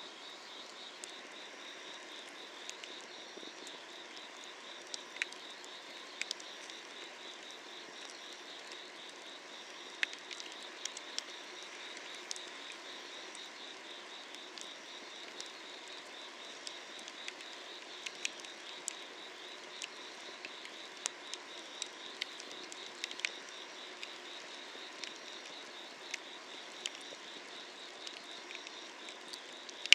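Wood fire under an iron cauldron crackling, with sharp pops at irregular intervals, over a steady chorus of summer-night insects trilling.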